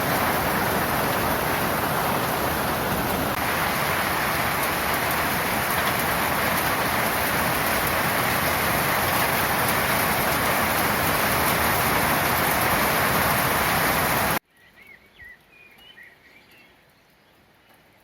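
Heavy rain pouring down in a steady, dense hiss, cutting off abruptly about fourteen seconds in; after that it is quiet, with a few faint bird chirps.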